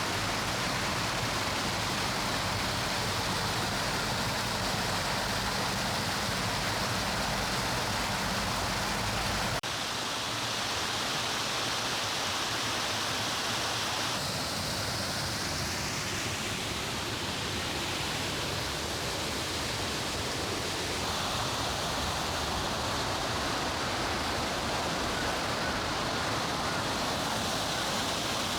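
Mountain forest stream flowing, a steady noise of running water. It changes abruptly about ten seconds in, and shifts again twice later, as the recording moves between different stretches of the stream.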